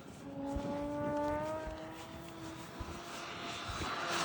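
A 67-inch Extreme Flight radio-controlled aerobatic plane's motor and propeller drone at one held pitch for about two seconds. The sound then fades and grows louder again near the end. Low wind buffeting on the microphone runs underneath.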